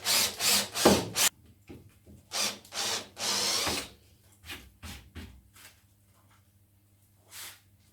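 Hand work on a wooden jig: a run of short scraping and rubbing strokes, the last one longer, as a metal part is worked into the wood. Then a few faint knocks.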